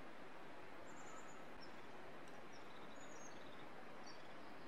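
Steady outdoor background hiss with small birds chirping briefly several times.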